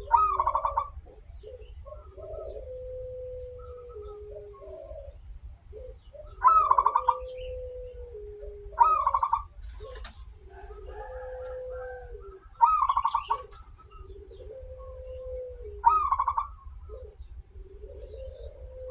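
Zebra dove (perkutut) cooing in long, drawn-out notes, broken by five louder, higher calls spaced a few seconds apart. A low steady hum runs underneath.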